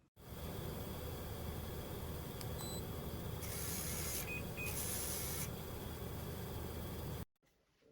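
Two short, high electronic beeps, a third of a second apart, over a steady hum and hiss that cuts off abruptly near the end.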